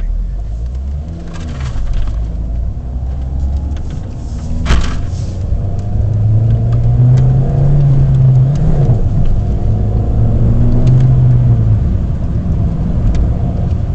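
Mini Cooper's four-cylinder engine heard from inside the cabin on the move, its pitch climbing as it pulls, dropping sharply about nine seconds in, then holding steady, over road noise. A single sharp click about five seconds in.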